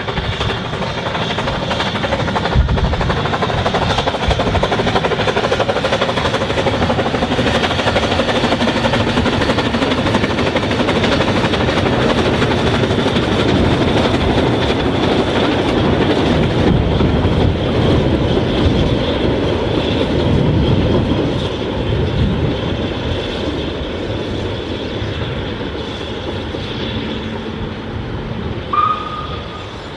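Narrow-gauge train running along the line: a steady rumble of wheels and running gear that builds toward the middle and then fades as it draws away. A brief high tone sounds near the end.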